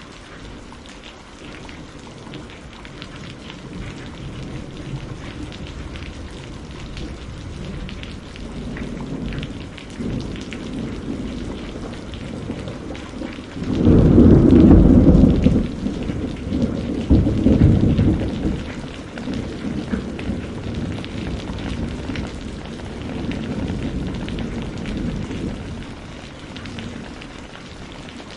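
Steady heavy rain with a roll of thunder: a low rumble builds, breaks into a loud peal about halfway through, surges once more a few seconds later and rolls away.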